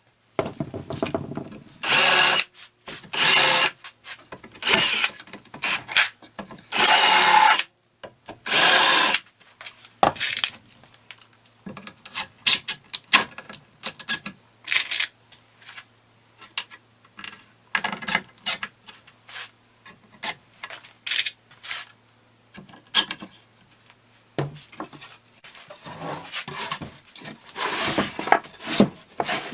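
Power drill running in five short bursts of under a second each, as when driving screws into wood. Scattered clicks and knocks of handled wood and tools follow, over a faint steady hum.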